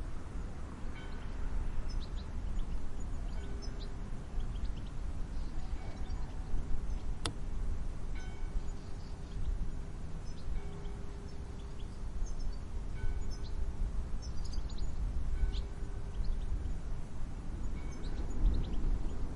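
Wind gusting in a low rumble, with small birds chirping sparsely in the distance and one sharp click about seven seconds in.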